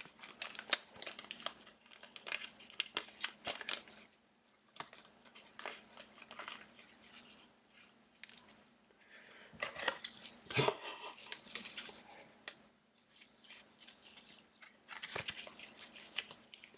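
Trading cards and foil pack wrappers being handled: irregular crinkling and rustling with short clicks and taps, busiest about ten seconds in, over a faint steady hum.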